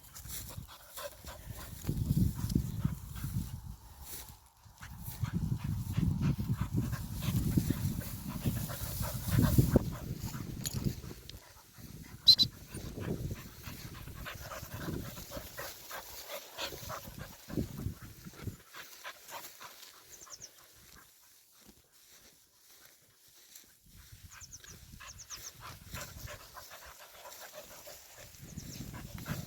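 A dog panting hard while working a grassy field, with rustling and scuffing. It is loudest in two stretches during the first ten seconds, then quieter.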